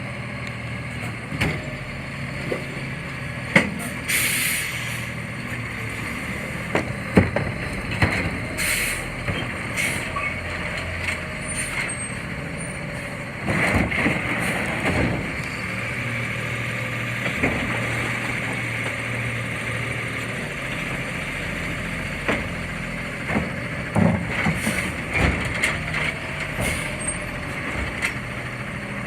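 CNG Autocar Xpeditor garbage truck engine running steadily, with a hiss of air brakes about four seconds in and several sharp knocks and clanks.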